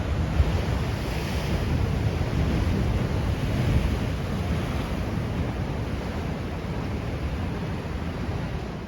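Ocean surf washing onto a rocky shore at high tide, a steady rumble that swells and slowly eases, with wind buffeting the microphone.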